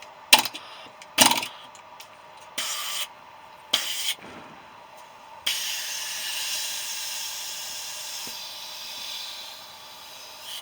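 An air-powered tool fed from a compressor that is short of pressure, triggered in four short bursts, then compressed air hissing out steadily for about five seconds.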